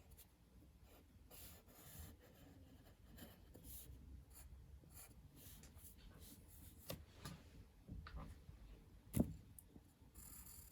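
Drawing on paper: faint, irregular scratching strokes of a pen or pencil tip, with a few light knocks, the loudest about nine seconds in.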